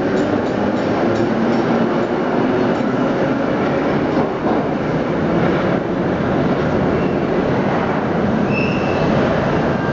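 1930s vintage New York City subway train running on the track, a steady rumble of wheels and car noise, with a brief high wheel squeal near the end.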